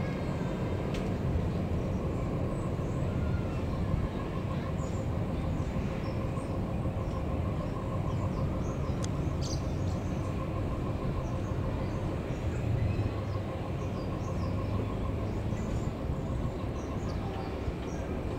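Steady rumble of a train running along the rails.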